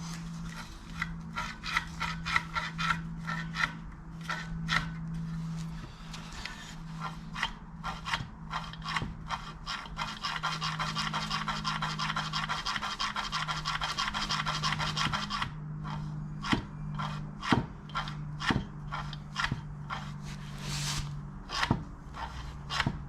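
Ratchet wrench clicking rapidly as a new grade 8 bolt and nut are tightened, with scattered metal clicks and taps of the work around it. A steady low hum runs underneath.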